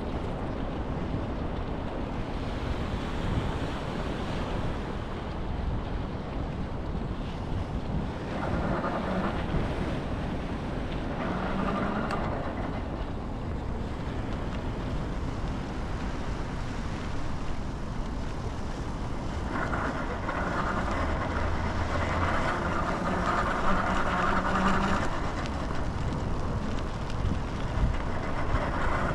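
Wind buffeting the microphone over a steady low rumble, with vehicles passing every so often: one near the start of the second third, a longer spell from about two-thirds of the way in, and another at the very end.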